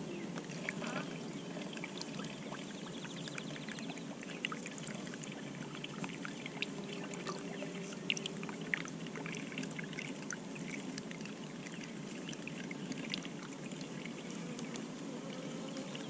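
Sugar syrup pouring through a large funnel into a beehive feeder, over a steady low hum from the honeybees, with scattered small clicks.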